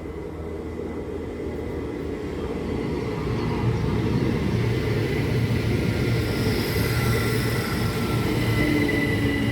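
A pair of Class 387 electric multiple units approaching and getting steadily louder: a low rumble and hum, with a thin high whine joining about six seconds in.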